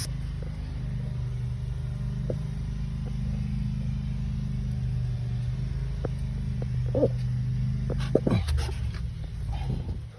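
An engine running steadily with a low hum, which dies down at the very end. A few short animal calls, like barks, come in near the end.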